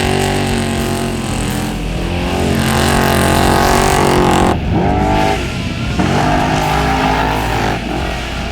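Off-road trophy truck engine revving hard at speed, its pitch climbing, dropping sharply about four and a half seconds in, then climbing again.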